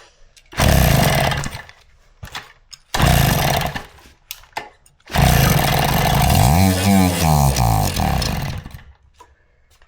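Kawasaki KD80's two-stroke single-cylinder engine catching and running in three short bursts, the last one lasting about three and a half seconds with the revs falling and rising again. The engine is coming back to life for the first time after sitting for about 30 years.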